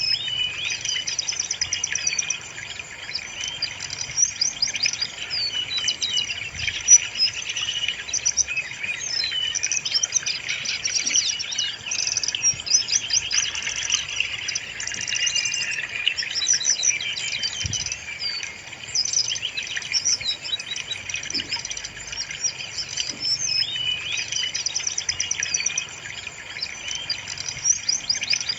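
Brown-chested jungle flycatcher song: a busy, unbroken stream of quick, high chirps and warbled phrases, many overlapping.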